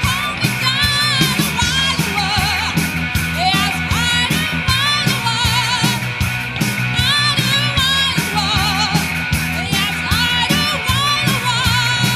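Rock and roll band playing, with a singer's wavering, vibrato-laden vocal over a steady drum beat and bass.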